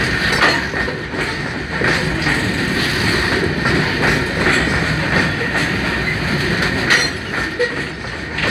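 Coal-laden open freight wagons rolling past close by: a steady rumble with repeated clacks from the wheels over the rail joints and a thin, steady high squeal from the wheels.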